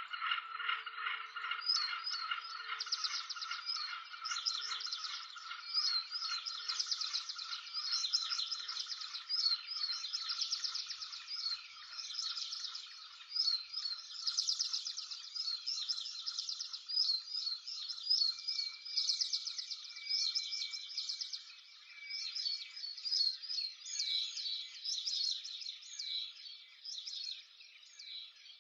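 Small songbirds chirping and trilling in quick repeated phrases. Under them a rapid pulsing, rattle-like tone fades out over the first several seconds.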